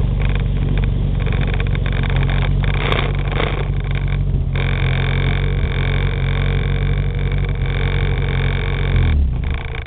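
Renault 6 TL's small four-cylinder engine running steadily at low revs, then switched off about nine seconds in, its sound dying away.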